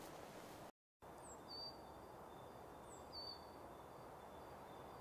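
Faint calls of a small songbird: a short high falling note followed by a lower held note, three times about two seconds apart, over quiet forest ambience. The sound drops out entirely for a moment about a second in.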